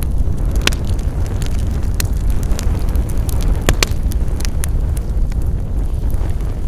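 Wood fire crackling: sharp, irregular pops and snaps, roughly one or two a second, over a steady low rumble of the burning fire.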